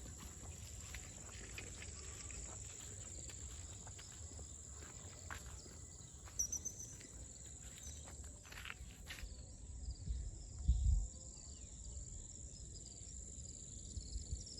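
Outdoor lakeside ambience dominated by a steady high-pitched drone of insects. A brief bird chirp comes about halfway through, with scattered clicks and steps, and a louder low thump near the two-thirds mark.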